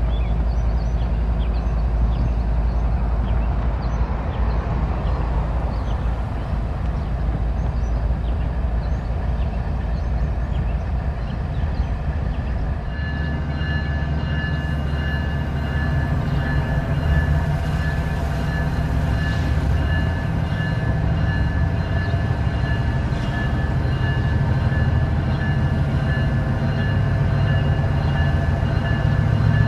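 CSX freight train passing at trackside, a steady low rumble of rolling cars. About halfway through, a steady high whine of several tones joins it over a heavier low hum.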